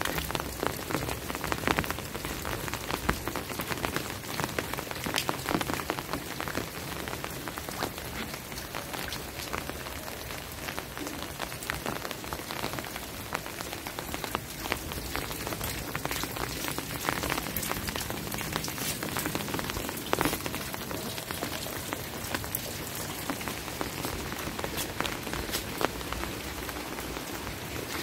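Steady rain falling, with many sharp close drop hits scattered through an even hiss.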